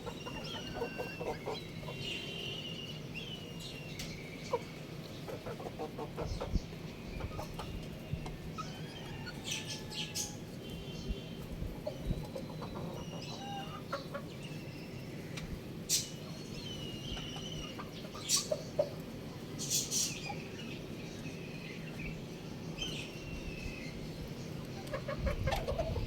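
Young rooster chirping and clucking in short, scattered high calls.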